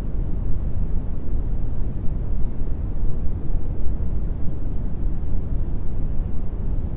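Brown noise: a steady, deep rumbling hiss with most of its weight in the bass and little at the top, unchanging throughout.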